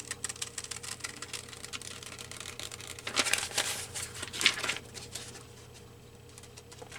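Scissors snipping through magazine paper, with paper rustling: a quick run of small clicks and crinkles, busiest about three to five seconds in and quieter near the end.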